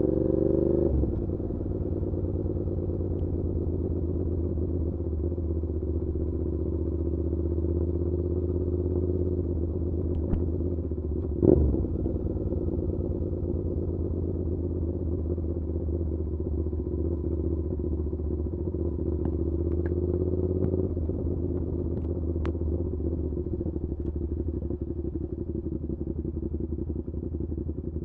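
Suzuki SV650's V-twin engine through an SC Project exhaust on the move: revs rise and then drop off about a second in as the throttle closes, then it runs steadily at cruise. There is one brief sharp crack near the middle, and the note eases slightly later on.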